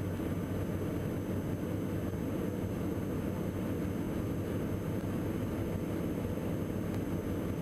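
Steady cockpit drone of a Diamond DA42 NG twin in flight, from its Austro AE300 turbo-diesel engine and propeller noise, with a low hum.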